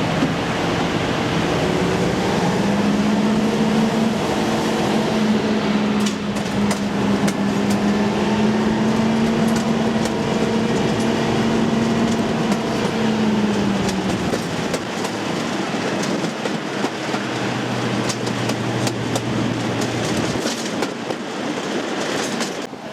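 Diesel locomotive engine running under load: its note rises about two seconds in, holds, then drops away around thirteen seconds in and settles to a lower hum, with scattered clicks along the way.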